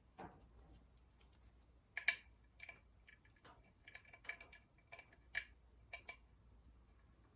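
Quiet, sharp metallic clicks, about ten of them at one or two a second, from a hand tool tightening a clutch cover bolt onto the engine's flywheel.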